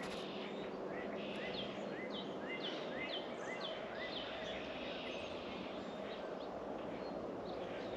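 A songbird singing a quick series of about eight short, upward-slurred whistles in the first half, over a steady outdoor background noise.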